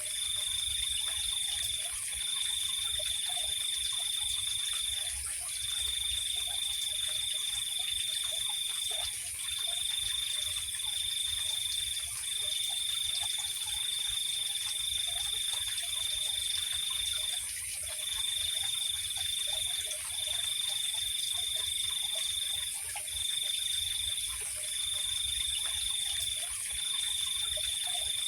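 Night chorus of insects: one high, pure trill that runs for a few seconds at a time with short breaks, over a steady higher-pitched insect hiss, with faint scattered lower calls.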